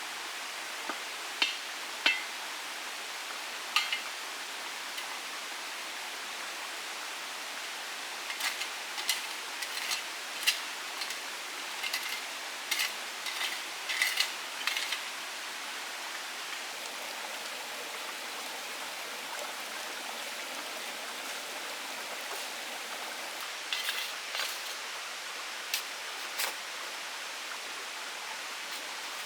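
Steady hiss of water, with sharp knocks and clicks: a quick run of them in the middle and a few more near the end.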